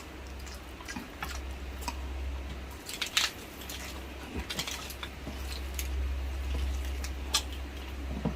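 Close-up eating sounds of braised pork hock: wet chewing and lip smacks with scattered short clicks, a cluster of them about three seconds in, over a low steady hum.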